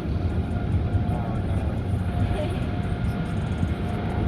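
Automatic car wash machinery heard from inside the car: a steady low rumble with a faint whine coming and going.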